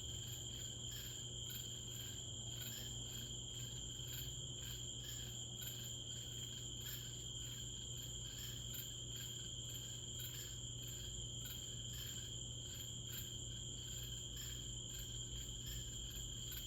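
Steady chorus of insects such as crickets, a constant high chirring with a fast even pulse, over a steady low hum.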